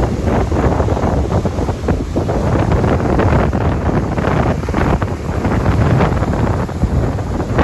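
Wind buffeting the microphone over the sound of sea surf, a loud, continuous rough rush with no lull.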